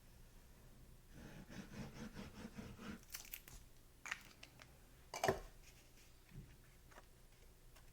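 Cardstock and paper being handled: rustling for a couple of seconds, then a few light taps and clicks, the loudest about five seconds in.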